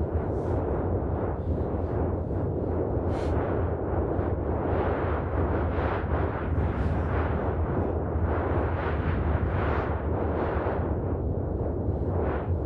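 Wind buffeting the microphone: a steady low rumble with a rushing noise that swells and eases in gusts.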